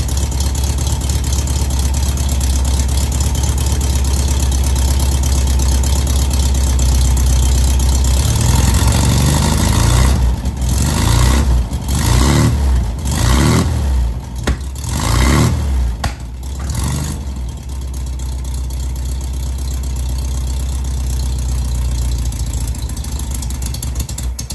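Rebuilt air-cooled flat-four engine of a 1970 VW Beetle running steadily at idle, freshly fuelled through the carburettor float bowl. From about a third of the way in, the throttle is blipped into about five quick revs, and the engine settles back to idle. The sound cuts off suddenly at the very end.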